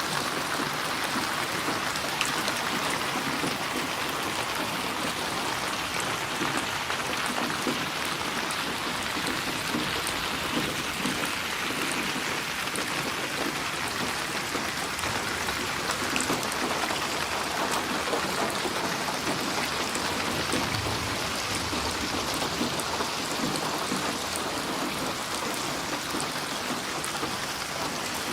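Steady rainfall, a dense even hiss of rain falling on surfaces with scattered individual drops ticking through it.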